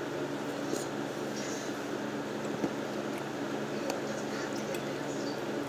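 Close-up chewing and mouth sounds of a person eating soft food (fried eggs and potatoes), with a few light clicks of a metal fork on the plate, over a steady low hum.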